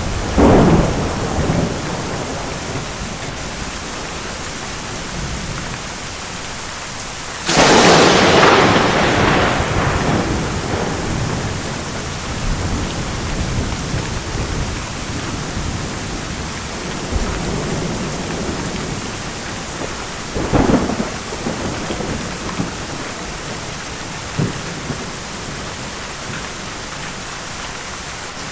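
Thunderstorm: steady heavy rain with rolling thunder. A sudden loud thunderclap breaks about a quarter of the way in and rumbles away over several seconds, with smaller rumbles at the start and about two-thirds of the way through.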